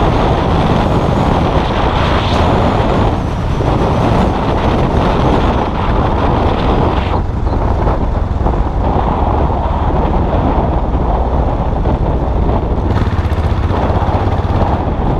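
Custom motorcycle's engine running steadily while riding, mixed with road and wind noise.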